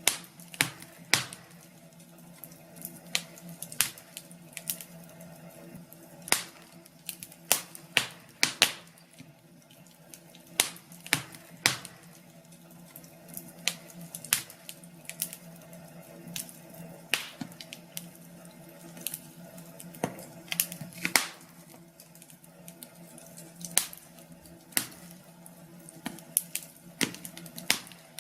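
Wood fire in a fireplace crackling: irregular sharp pops and snaps, a few a second, over a soft steady hiss and a faint low hum.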